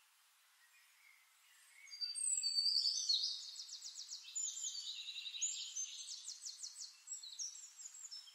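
A small songbird singing in high, rapid trills and chirps. The song starts about two seconds in, is loudest at first, then goes on more faintly.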